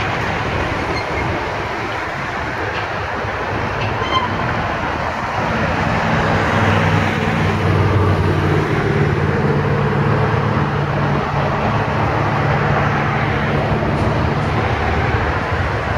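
Steady road traffic noise, with a heavy vehicle's low engine hum swelling from about a third of the way in and fading again near the end.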